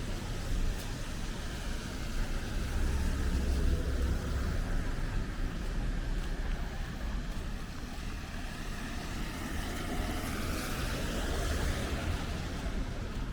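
Street traffic: motor vehicles running past with a steady low rumble of engines and tyres, one passing more loudly about ten seconds in.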